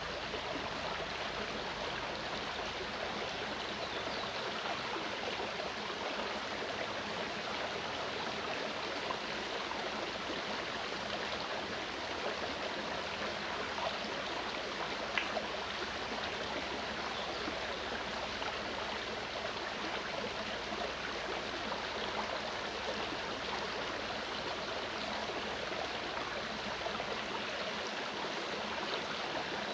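Mountain stream running with a steady rush of water and small gurgles.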